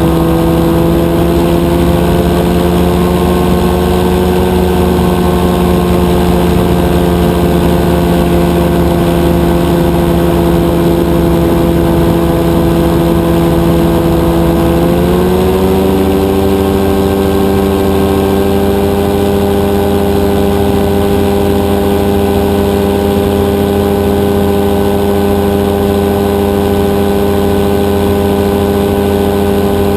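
Rotax 582 two-stroke twin engine of a powered parachute running steadily at cruise. Its pitch steps up slightly about halfway through as the throttle is opened a little, then holds.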